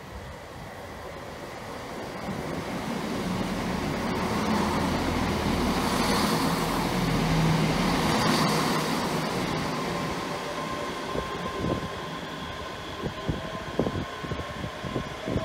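Passenger train running past close along a station platform, growing louder to a peak midway and then fading. Thin whining tones come in near the end, along with sharp clicks of wheels on the track.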